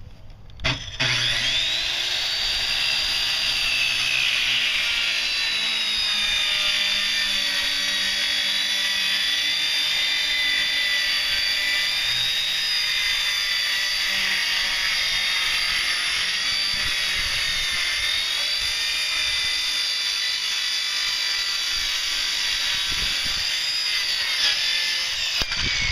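Electric power saw cutting through a wooden board for a new boat seat: the motor starts about a second in, runs under load with a steady high whine, and winds down near the end.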